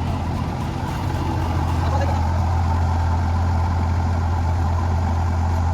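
Heavy machine's diesel engine running steadily with a deep, constant drone, getting a little louder about two seconds in.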